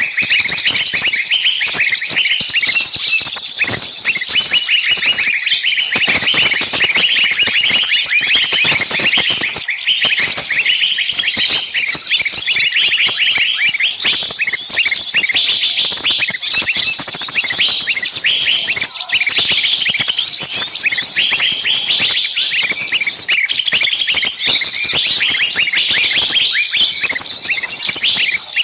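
A dense, continuous chorus of many small birds calling at once, with rapid, high, shrill chirps and trills overlapping without a break. It is a bird-luring call of small birds screaming in alarm, as if one bird were caught.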